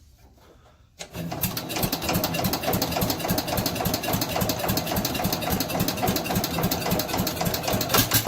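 The Allis-Chalmers Big Ten garden tractor's single-cylinder Briggs & Stratton engine catches about a second in and runs loud, with no muffler and its carburetor removed. It fires in fast, rough pulses for about seven seconds and then cuts off suddenly.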